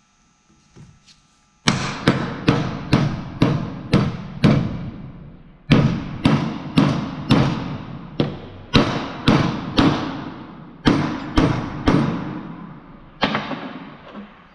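Hammer blows on a socket driving a differential carrier bearing onto the Dana 44 carrier, the socket pressing only on the bearing's inner race. The sharp ringing strikes come about two a second in several runs with short pauses, starting a couple of seconds in.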